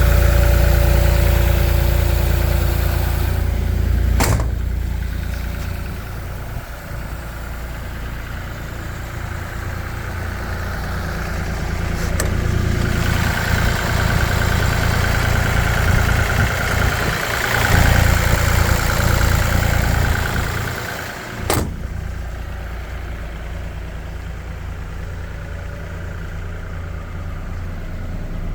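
Kubota U50-5 mini excavator's diesel engine running, its level falling and rising again through the stretch, loudest a little past the middle. Three sharp knocks come about four, twelve and twenty-one seconds in.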